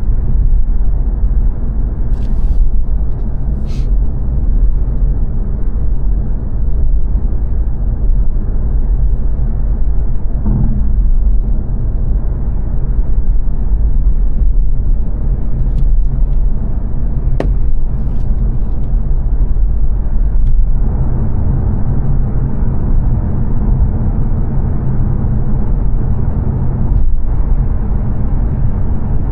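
Steady road and engine noise heard inside the cabin of a 2022 Mazda 3 saloon cruising on a dual carriageway, a low even rumble with a few faint clicks.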